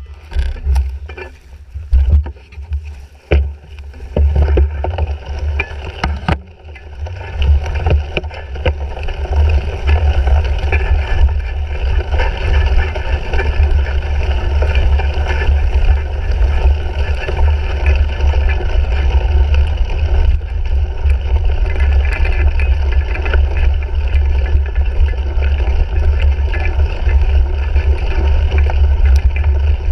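A cyclocross bike (2017 Fuji Jari 1.5) ridden over rough race-course ground, picked up by a handlebar-mounted GoPro Hero 3. Wind rumbles on the camera's microphone and a steady rushing noise of tyres and bike runs throughout. Several sharp knocks and rattles come in the first few seconds.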